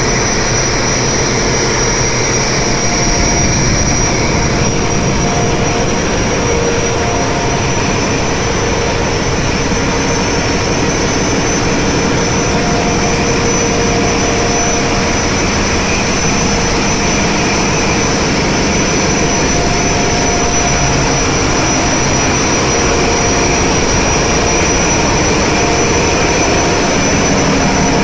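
Loud, steady machinery running in a ship's engine room: a constant dense roar with a steady high whine and several lower hums held throughout.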